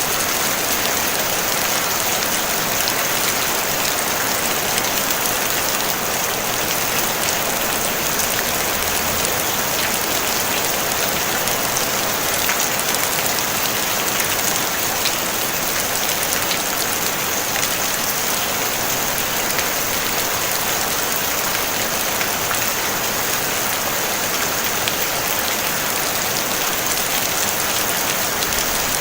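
Steady rain on a tin roof: an even hiss dotted with small ticks of single drops, with no thunder.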